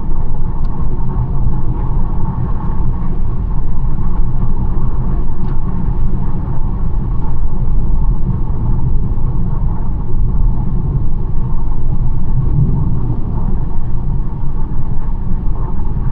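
BMW 1 Series driving at steady speed: a constant low rumble of engine and tyre road noise.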